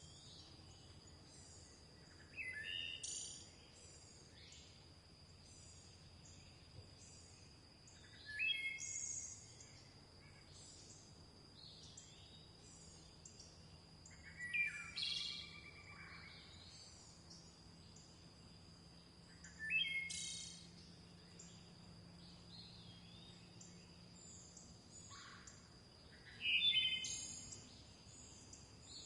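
Birdsong: one bird repeats a loud, short song phrase of several quick notes about every six seconds. Many fainter high chirps from other birds run constantly underneath, over a steady high-pitched tone.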